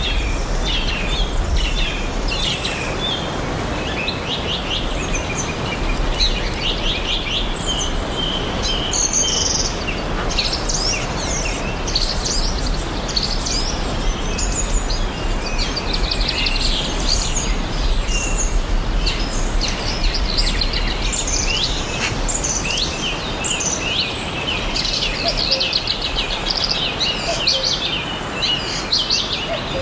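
Many songbirds chirping and trilling at once, in dense overlapping calls, over a steady rushing background noise of a lake and forest ambience.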